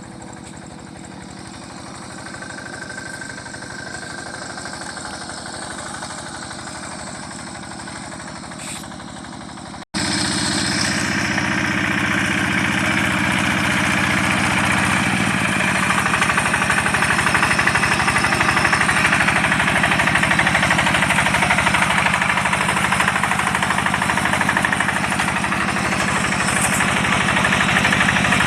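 Rice-field tractor engine running steadily. The sound cuts about a third of the way in, then the engine is heard louder and closer.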